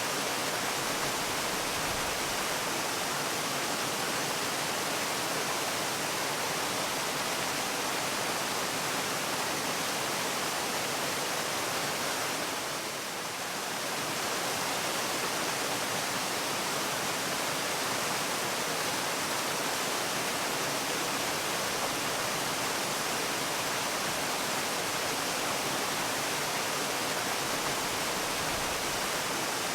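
Waterfall, falling water making a steady, even rushing hiss across all pitches. It dips slightly for a moment near the middle.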